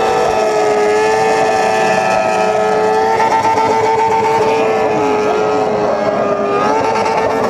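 Motorcycle engines held at high revs with a steady, sustained note. The pitch sags slightly about half a second in and climbs back up near the end, while other engines rise and fall underneath.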